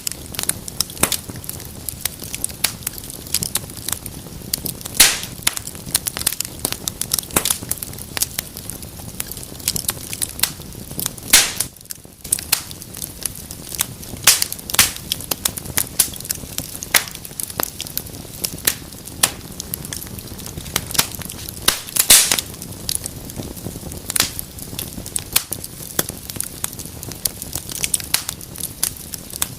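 Wood fire in a fireplace crackling: frequent sharp pops and snaps over a steady hiss, with a few louder pops.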